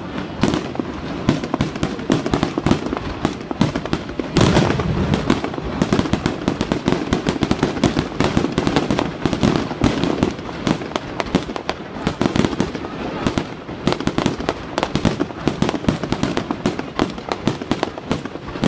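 Fireworks going off non-stop, a dense crackle of many bangs a second with a heavier burst about four seconds in.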